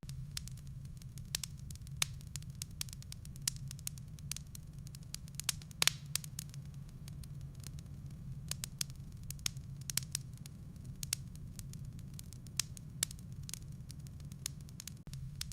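Wood fire burning in a fireplace: a steady low rumble with frequent sharp crackles and pops from the firewood, the loudest pop about six seconds in.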